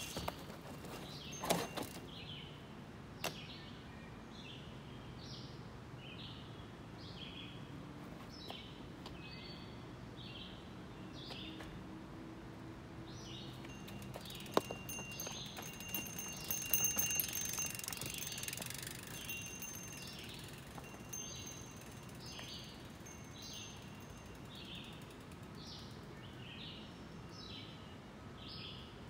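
Short bird calls repeating about once or twice a second in woodland. A mountain bike knocks sharply against rock about a second and a half in and again midway, with a brief rattle just after.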